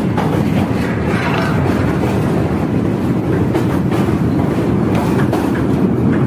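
Passenger train running across a steel truss railway bridge: a steady, loud rumble of wheels on rail with scattered clicks from the rail joints.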